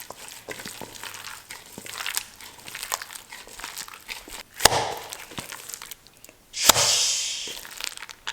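Wet shrimp paste being mixed in a bowl: soft crackling and squishing throughout. A sharp knock comes about halfway through, and a louder knock followed by a brief rushing noise comes near the end.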